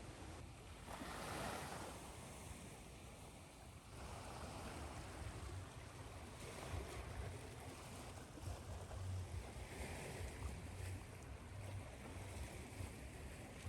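Ocean waves washing on a shore, a faint, even wash of noise that swells about a second in and again around four seconds, mixed with steady white noise and a low rumble.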